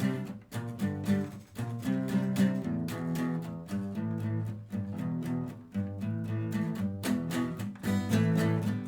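A live band playing an instrumental passage, led by acoustic guitar strummed in a steady rhythm.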